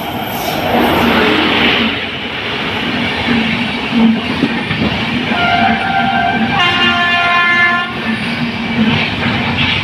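Train running through a station on clattering wheels, its locomotive horn sounding twice in the middle: a shorter two-tone note, then a longer, fuller chord.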